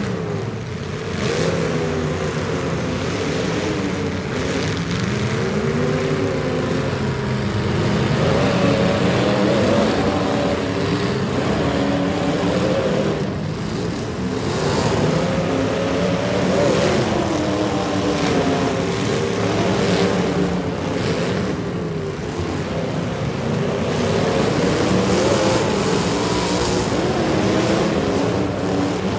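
Several demolition derby cars' engines revving up and down together, with their pitch rising and falling throughout.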